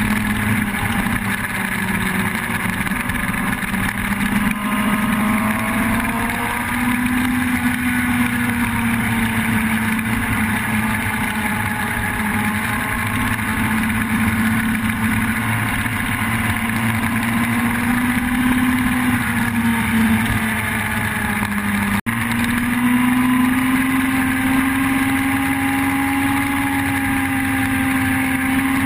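Yamaha YZF-R1 sport motorcycle's inline-four engine running at a steady mid-range throttle, its pitch drifting slowly up and down as it circles, with fainter engine notes sliding independently underneath. After an abrupt cut about three-quarters of the way through, the note sits a little higher.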